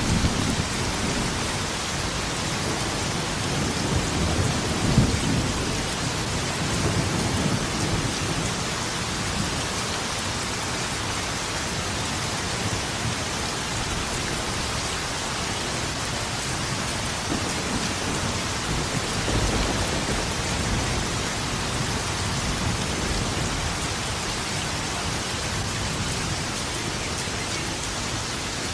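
Steady rain with rolling thunder. One long rumble fills the first several seconds, loudest about five seconds in, and a second, fainter rumble comes about twenty seconds in.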